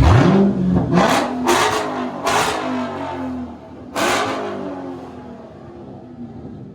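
Car engine revved hard in a series of sharp blips, about five loud blasts from the exhaust in the first four seconds, each with the engine note climbing, then settling and fading away.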